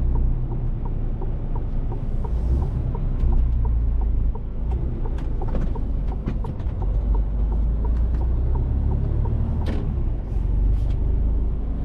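Mercedes-Benz Actros truck's diesel engine running with a steady low rumble while driving. Over the first four seconds a light regular ticking of about three a second, like a turn-signal relay, then scattered sharp clicks and knocks later on.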